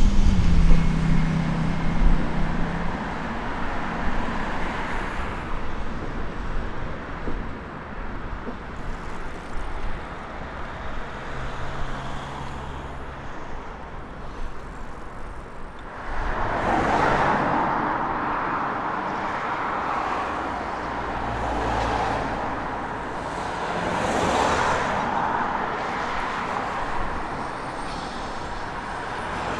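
A passenger train of coaches rolling over a railway bridge at the start, its noise fading away over the next few seconds. From about halfway through, steady road traffic with cars swelling past several times.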